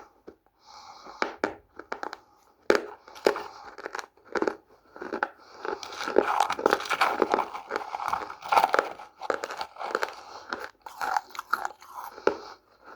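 Close-up biting and chewing of hard, dry edible clay (multani mitti or red mitti): sharp crisp crunches, sparse at first, then dense and almost continuous from about five seconds in.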